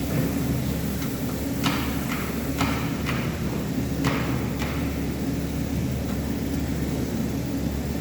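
Five sharp knocks on metal, likely hammer blows, come between about one and a half and five seconds in. A steady low motor hum runs underneath throughout.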